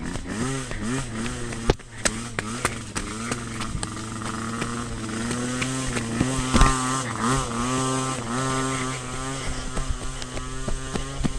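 Two-stroke dirt bike engine revving up and down as it is ridden uphill, with scattered knocks from the rough ground.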